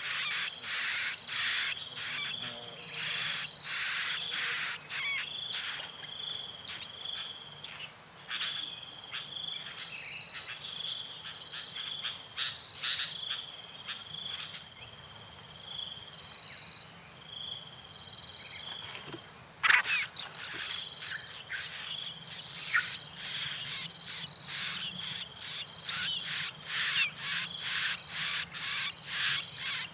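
Steady high-pitched insect drone of crickets or cicadas, with a second insect pulsing in an even rhythm just below it. Many short chirps come over it, thicker near the start and again near the end.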